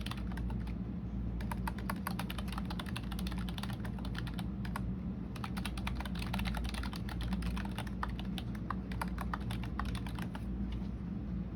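Typing on a computer keyboard: runs of rapid key clicks with a couple of brief pauses, stopping about a second before the end. A steady low hum runs underneath.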